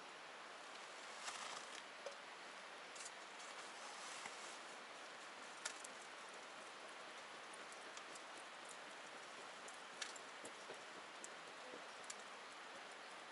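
Wood campfire crackling faintly: a steady hiss with irregular sharp pops, the loudest about a third of the way in and again about ten seconds in.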